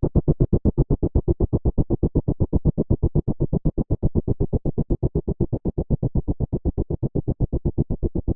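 A sound effect of rapid, even low pulses, about ten a second.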